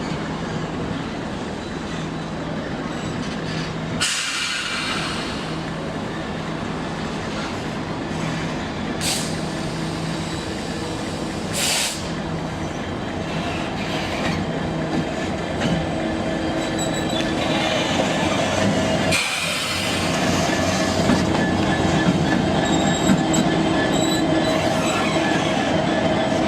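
Class 66 diesel freight locomotive and its train passing, a steady engine drone with wheels rolling and squealing on the rails; it grows louder in the last third.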